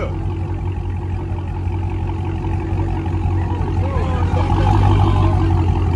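Car engine running at a steady, even low drone.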